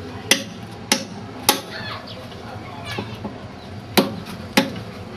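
A steady run of sharp strikes, like chopping or pounding, about one every 0.6 seconds, with a pause of about two seconds in the middle. Faint chirping is heard in the pause.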